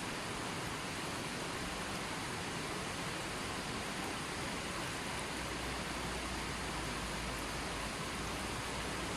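Running water flowing steadily, an even rushing hiss.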